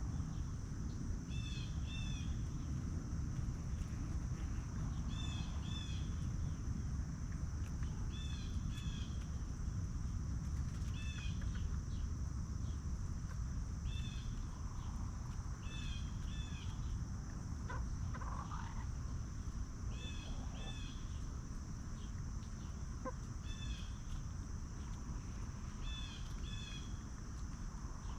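Farmyard ambience: a bird repeats a short double chirp every couple of seconds over a steady high-pitched insect drone and a low background rumble.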